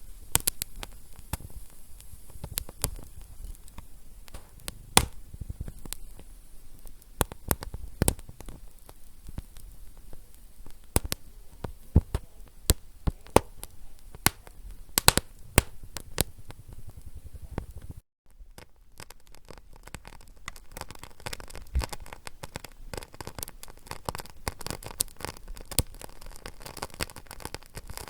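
Wood fire crackling: irregular sharp pops and snaps over a low hiss. The sound cuts out for an instant about two-thirds through, and the crackle is denser and finer after it.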